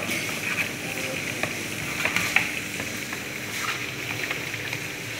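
Food sizzling and crackling in hot oil on an electric stove: vegetables stir-frying in a pan and meat frying in a pot of oil, with a spatula clicking and scraping against the pan as they are stirred.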